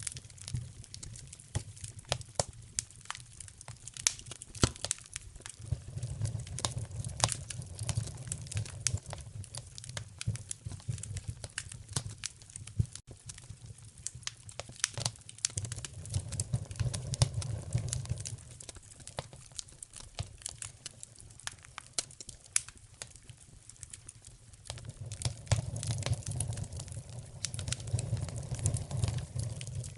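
Wood fire burning in a fireplace: irregular sharp crackles and pops from the logs over a low roar of flame that swells and fades several times.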